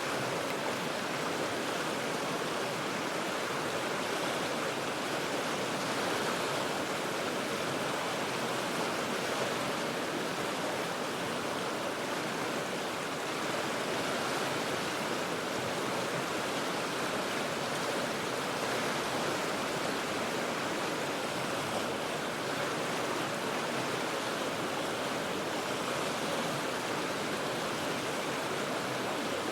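River water rushing steadily over rocks, an even, unbroken roar of flowing water.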